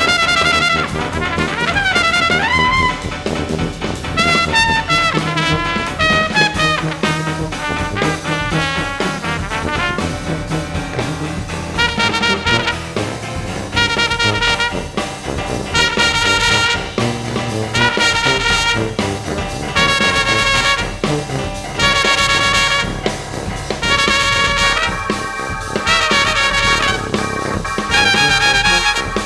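Jazz brass ensemble music: trumpets with baritone saxophone and tuba, backed by keyboards and drums. In the first part a solo horn line bends and slides in pitch. From about halfway through, short punchy brass chords repeat about every two seconds.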